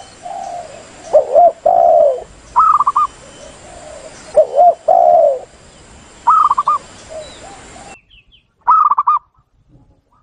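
Recorded dove lure calls: spotted doves cooing in low two-part phrases, alternating every couple of seconds with the higher, rapidly quavering coos of zebra doves. The background hiss cuts off about eight seconds in, leaving one last quavering call.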